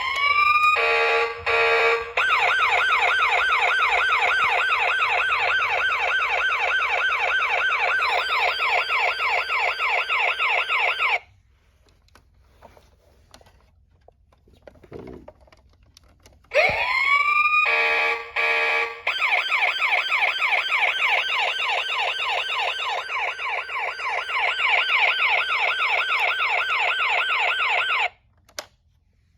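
Electronic siren sound effect from a toy fire engine's small built-in speaker, played twice. Each time it opens with a rising wail and a brief choppy stretch, then settles into a fast, steady up-and-down wail that stops suddenly.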